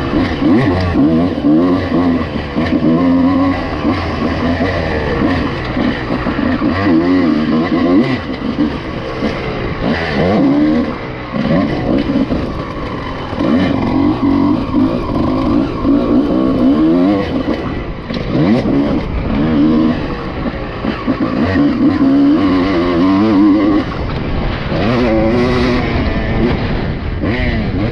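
Honda CR250 two-stroke motocross bike engine revving hard and easing off again and again, its pitch climbing and falling every couple of seconds as the bike is ridden round the track.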